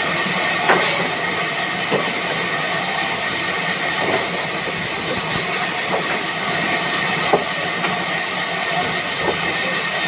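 Sawmill machinery running with a steady, loud noise, with a few sharp knocks scattered through it.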